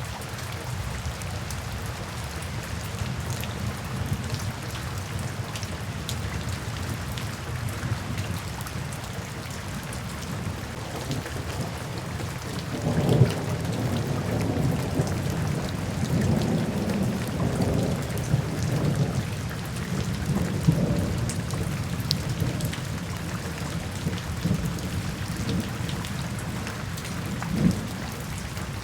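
Steady rain falling, with a low roll of thunder rumbling in a little under halfway through and dying away over several seconds, and a brief low thump near the end.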